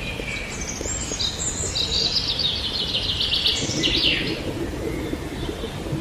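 Songbird singing: a rapid run of high chirps through the middle, ending in a quick falling note, over a steady outdoor background hiss.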